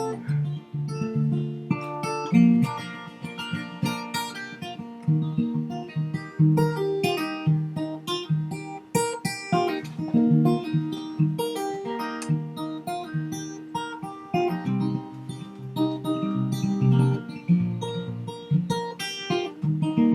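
Acoustic guitar playing an instrumental passage, picked and strummed chords with a steady rhythm.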